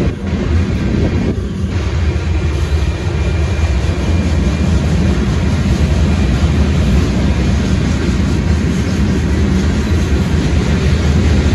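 A freight train of hopper cars rolling past on the rails, a steady loud low rumble.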